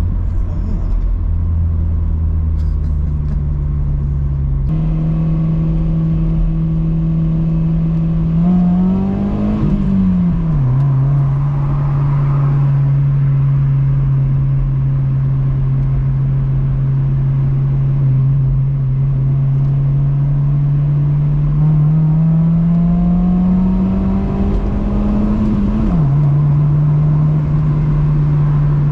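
Honda Civic EP2's 1.6-litre four-cylinder running through an aftermarket cat-back exhaust while driving. It holds a steady note, then twice revs higher under acceleration and drops sharply at a gear change, about ten and twenty-six seconds in.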